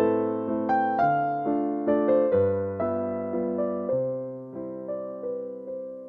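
Instrumental piano music: notes and chords struck about once or twice a second, each fading slowly, in a calm melody.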